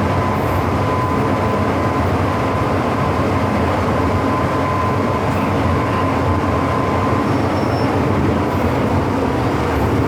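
MTR Tsuen Wan Line M-Train running, a steady rumble with a thin high tone held until about seven seconds in.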